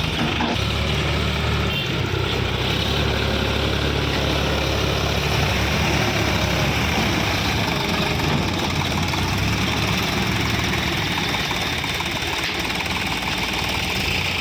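Sonalika DI 750 RX tractor's diesel engine running steadily.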